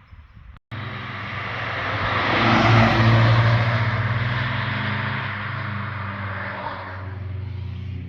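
A car's engine and exhaust passing by on a mountain road, starting abruptly under a second in, growing louder to a peak about three seconds in and then slowly fading away.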